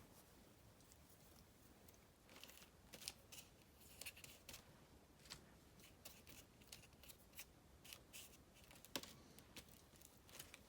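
Faint rustling of paper scraps being handled, with a scatter of light clicks and snips, starting about two seconds in.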